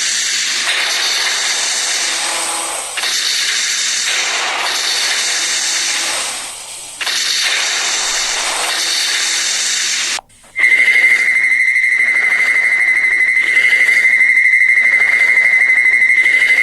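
Sound effects for an invented robot-owl creature: a loud steam-like hiss repeated three times with short breaks, then after a brief gap about ten seconds in, a steady high-pitched whistle tone over a pulsing hiss.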